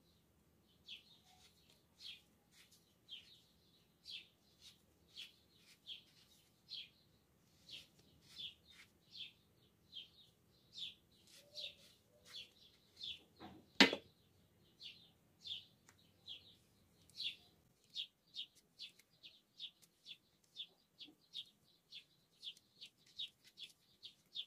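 A bird chirping over and over, short high chirps at about two a second, coming faster toward the end. A single sharp knock about two-thirds of the way through.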